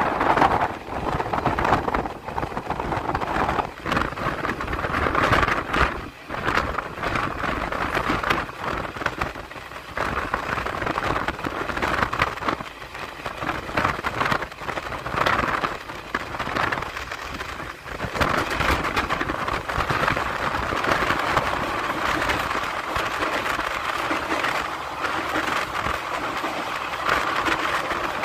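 Passenger train running at speed, heard from an open coach door: a steady rush of wheel-and-rail noise and wind on the microphone that swells and dips every few seconds.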